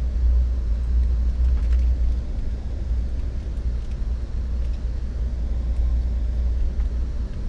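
Steady low rumble inside an Amtrak passenger car as the train rolls slowly, with a few faint ticks.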